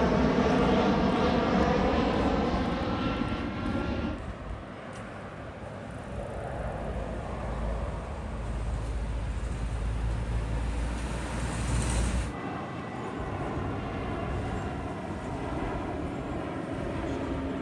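Aircraft engines passing close at an airport, loud at first with a faint whine. About four seconds in the sound changes suddenly to a deep, lower rumble, which breaks off sharply about twelve seconds in.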